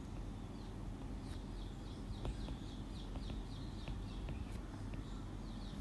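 Faint small birds chirping in the background, many short high chirps repeating every fraction of a second, over a steady low electrical hum.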